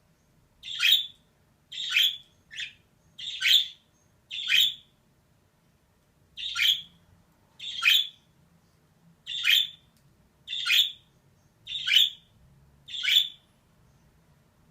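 Female budgerigar calling: short, sharp calls about once a second, eleven in all, with a pause of about two seconds partway through.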